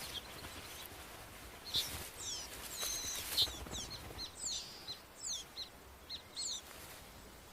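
Small songbirds chirping: a scattered series of short, high chirps, some sliding up or down in pitch, starting about two seconds in and dying away near the end.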